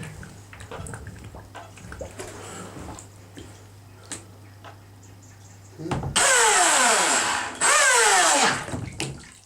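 Motor and water-jet pump of a capsized RC jet boat given two short blips of throttle, each a loud whirr that starts suddenly and falls in pitch as it spins down. The motor's torque is what rolls the boat back upright. Before the blips there is faint sloshing and small clicks.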